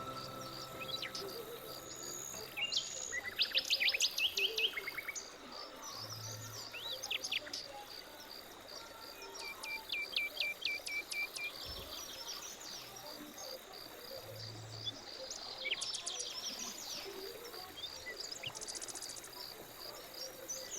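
Wild birds chirping and trilling, with quick runs of repeated notes, over a steady, evenly pulsing insect chorus.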